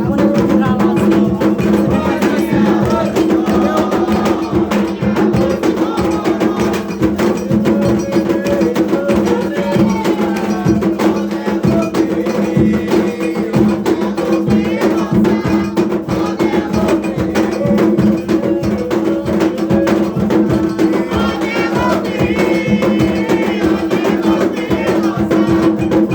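Afro-Brazilian atabaque drumming, with the lead rum drum playing a dense, unbroken run of strokes over steady sustained tones.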